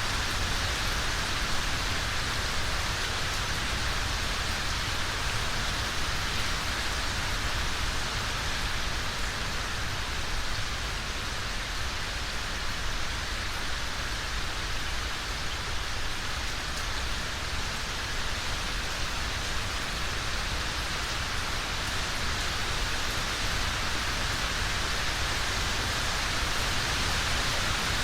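Steady, even rain falling, a constant hiss without distinct drops or thunder.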